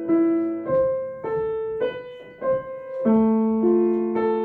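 Piano played slowly, one hand at a time: a broken-chord left-hand figure, single notes struck about every half-second, with the lower notes left ringing under the higher ones.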